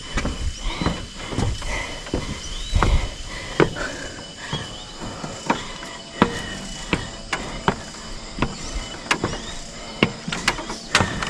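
Footsteps on the wooden planks of a canopy hanging bridge: sharp, uneven knocks about once a second, with squeaks from the bridge. A steady high-pitched hum runs behind them.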